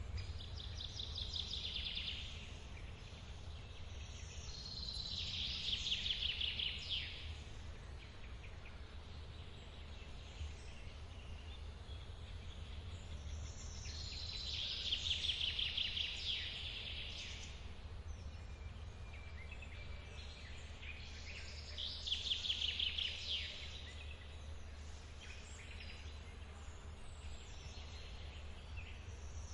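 A forest waterfall gives a steady low rumble of falling water. Over it a songbird sings a short, fast trill of high notes, repeating the phrase about every seven or eight seconds.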